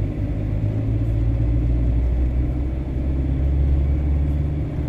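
Road and engine noise inside a camper van's cabin while driving: a steady low drone that grows a little louder about a second in and eases near the end.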